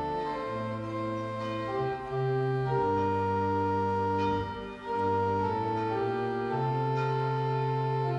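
Organ music: slow, sustained chords, with the notes changing every second or so.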